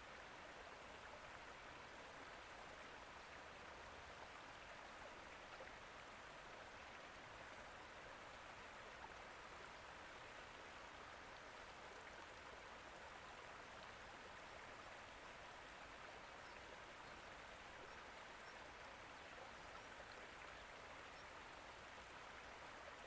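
Faint, steady rush of water with no distinct drips or splashes.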